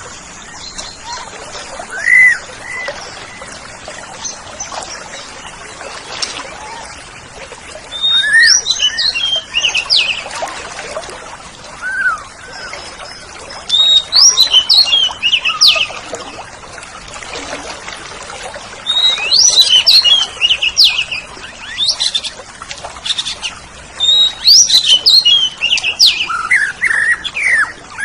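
Oriental magpie-robin (kacer) singing: four bursts of rapid, varied chirps and whistles a few seconds apart, with single short rising-and-falling whistles in the gaps between them.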